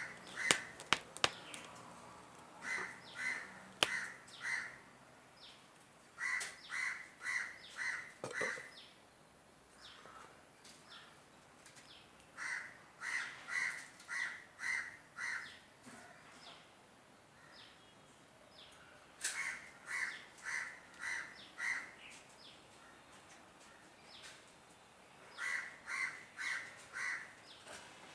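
A bird calling outside in runs of four to six harsh calls, about two a second, with pauses of a few seconds between runs. A few sharp clicks sound in the first few seconds.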